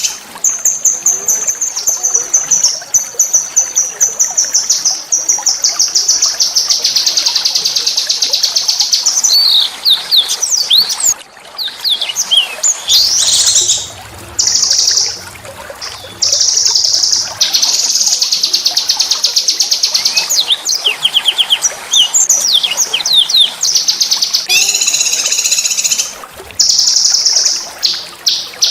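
A small songbird singing high, fast rattling trills that run on for several seconds at a time, with bursts of quick sweeping whistled notes between them. It is a rough, rolling song of the kind used as tutor song for caged songbirds.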